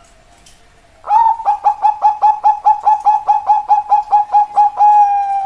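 Zebra dove (perkutut) singing: a quick run of short cooing notes, about five a second, ending in one longer held note.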